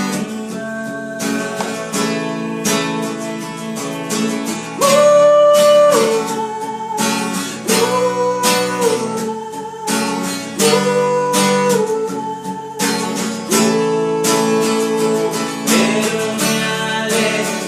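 Acoustic guitar strummed steadily, with long held melody notes, each lasting a second or so, sounding over the strumming four times.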